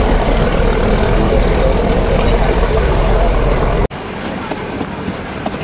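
Nilgiri Mountain Railway carriage running along the track, heard from an open window: a loud, steady rumble with a faint high whine slowly rising in pitch. It cuts off abruptly about four seconds in to a quieter stretch of the same running noise.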